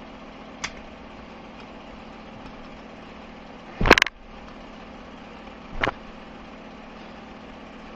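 Metal clicks and a short clatter from the output shaft of a Dymos gearbox as the shift sleeve is slid over to engage fifth gear: a light click just under a second in, the loudest rattle about four seconds in, and another near six seconds, over a steady low hum.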